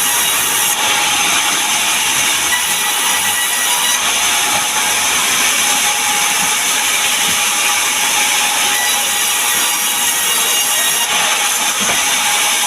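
Sawmill saw cutting acacia wood: a loud, steady, hissing noise that holds without a break.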